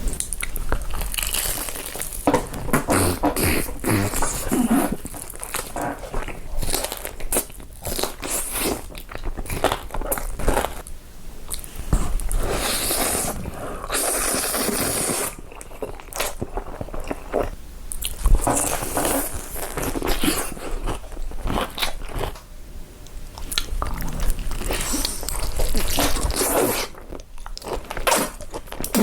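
Close-miked eating sounds: repeated crunchy bites and chewing of crisp food, with many sharp crackles.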